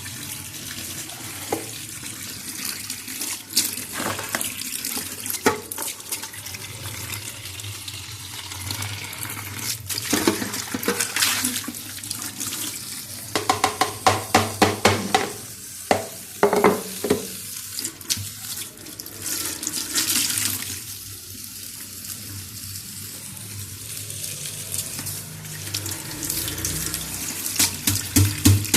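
Tap water running into a sink, with repeated clatter, knocks and quick runs of rubbing strokes from things being handled and scrubbed under it.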